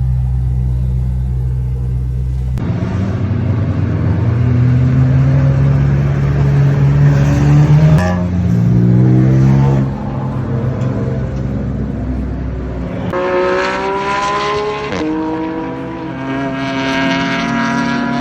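BMW M3 race car engine under hard acceleration, heard onboard: a steady low running note for the first couple of seconds, then the pitch climbing repeatedly and dropping back at gear changes.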